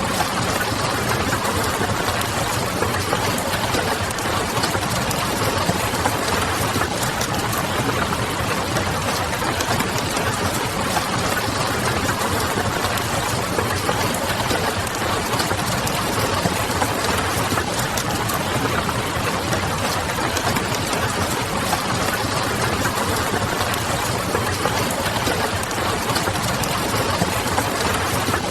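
Steady rain with the crackle of a wood fire, small irregular pops over an even hiss, above a low, distant hum.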